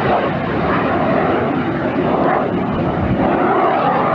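BD-10 kit jet's single turbojet engine running as it flies around the airfield: a steady, loud rushing jet noise.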